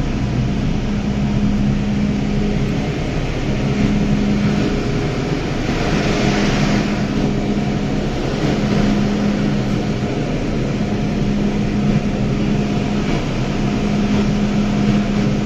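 Steady hum inside a stationary MTR M-Train car standing at the platform. A low tone in it drops out briefly now and then, and a short swell of hiss comes about six seconds in.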